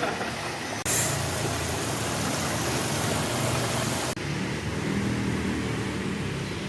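A motor running steadily with a low hum. A loud, even hiss starts abruptly about a second in and cuts off sharply about four seconds in.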